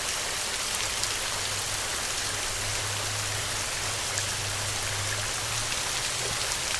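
Steady rain falling, a dense, even hiss with scattered drop ticks. A low hum sits underneath it from about a second in until near the end.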